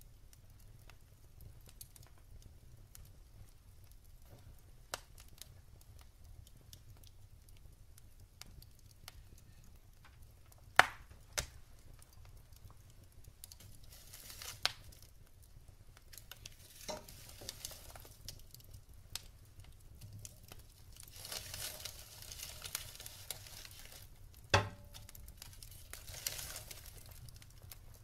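Wood fire in a fireplace crackling: scattered sharp pops of the burning logs, the loudest about 11 and 25 seconds in, with stretches of soft hissing from the wood in between.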